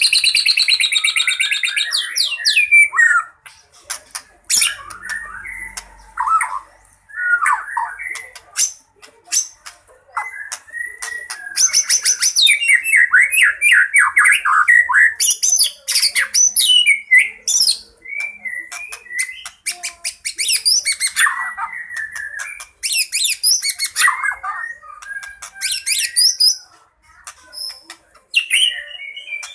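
White-rumped shama (murai batu) singing a loud, varied fighting song: fast whistled phrases and trills packed with mimicked fills, broken up by runs of short sharp clicks.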